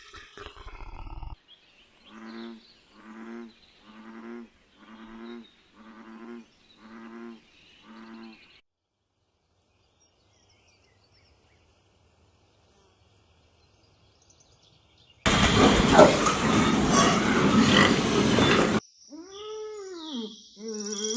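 A run of separate animal calls, one after another: seven short pitched calls about one a second, then a pause. A loud, rough sound lasting about three and a half seconds follows, then a few arching pitched cries.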